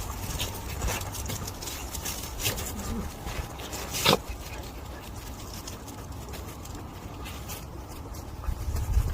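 Dogs playing on icy snow, making scattered scraping and crunching sounds with one sharp louder sound about four seconds in.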